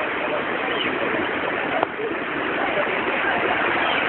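Heavy rain and running rainwater: a steady rushing hiss, with a single sharp click about two seconds in.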